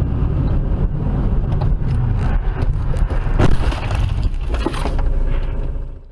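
A moving car's heavy, low road and engine rumble, with two sharp knocks or scrapes, one about three and a half seconds in and another near five seconds. It cuts off suddenly near the end.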